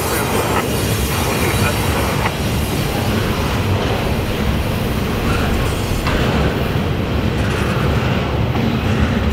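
Double-stack intermodal container train rolling past at close range: a loud, steady noise of steel wheels on the rails and the well cars running by.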